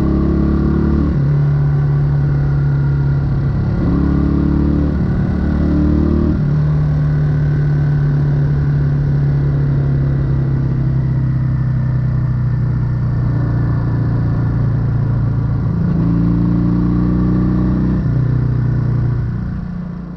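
1968 Honda Dream CD250 motorcycle engine and exhaust running while riding, its pitch shifting up and down several times with the throttle. The sound fades out near the end.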